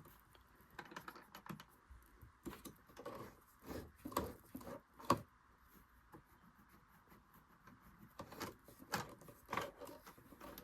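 Irregular light clicks and taps from hands working on a Singer Genie sewing machine, checking why its thread tension is off.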